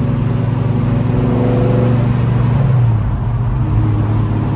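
A 1970 Chevelle's engine pulling the car down the road, heard from inside the cabin. Its pitch climbs gradually, then drops about three seconds in.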